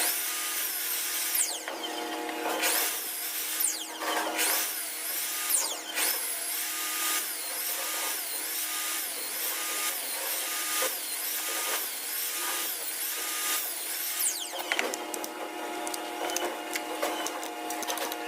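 Woodworking power tools running in a workshop, with a steady hum and a repeating machine cycle of about one stroke every 0.7 seconds through the middle.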